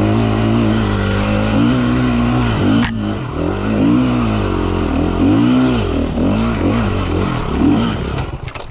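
KTM EXC 350F single-cylinder four-stroke dirt bike engine revving up and down over and over as the rider works the throttle up a climb. The engine noise drops away sharply near the end.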